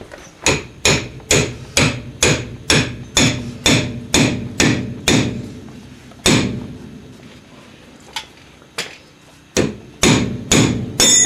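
Hammer blows on a wedge-type tie rod end separator (pickle fork), driving it in to knock a drag link ball joint's tapered stud loose. The blows come about two a second for some six seconds, pause with two lighter taps, then resume in a quick run near the end.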